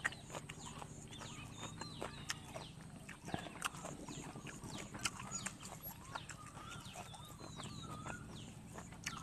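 Close-up chewing and lip-smacking of a person eating a mouthful of curry, picked up by a lapel microphone: wet mouth clicks and smacks at an uneven pace, with high chirping in the background.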